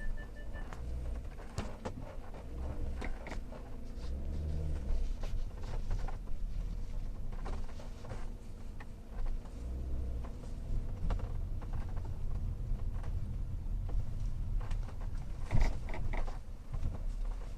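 A 2016 Hyundai Tucson TL driven over uneven road: a steady low road rumble with scattered knocks, creaks and short squeaks, and one sharper knock near the end. This is the squeak and noise over bumps that the owner is chasing as a fault.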